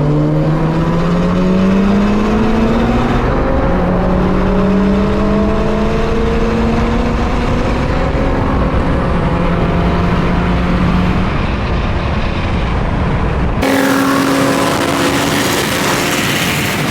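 Mitsubishi Evo's turbocharged four-cylinder engine pulling hard under acceleration, heard from on board: the note climbs, drops at an upshift about three seconds in, then climbs and holds. Near the end the sound switches abruptly to a loud rushing hiss like wind on the microphone.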